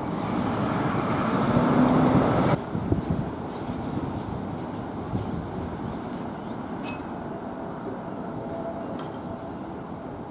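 Train rolling along the rails with a steady rumble that drops off suddenly about two and a half seconds in, then goes on more quietly with a few faint clicks and squeaks.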